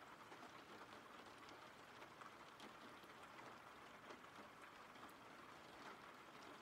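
Faint steady rain: a soft hiss of rainfall with light, scattered drop ticks.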